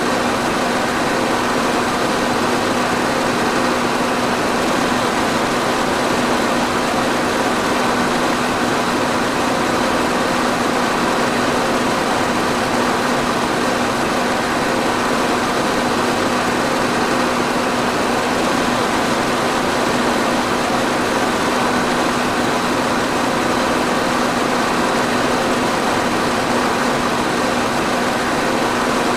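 Electric fan running steadily: an even rush of moving air with a constant low motor hum underneath, unchanging throughout.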